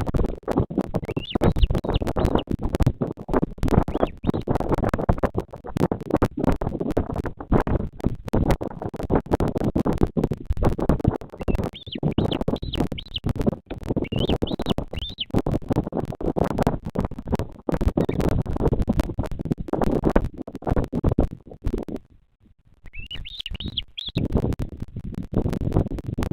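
Wind buffeting the nest camera's microphone, a continuous rough crackling rumble that drops out briefly near the end. Short high chirping bird calls come through several times, in groups a few seconds apart.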